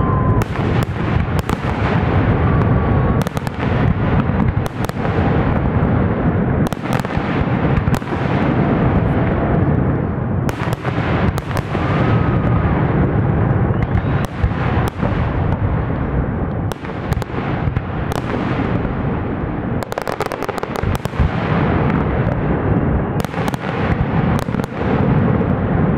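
Fireworks display: a continuous barrage of aerial shells bursting, with many overlapping bangs and crackling reports over a low rumble that never lets up.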